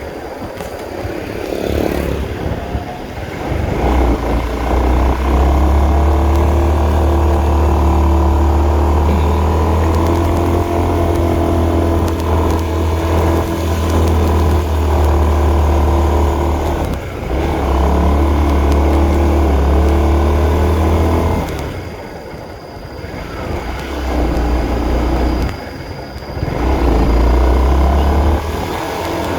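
Honda CB150R's single-cylinder engine running hard under load. It drops off briefly about four times, around 3, 17, 22 and 25 seconds in, as the throttle eases or a gear changes.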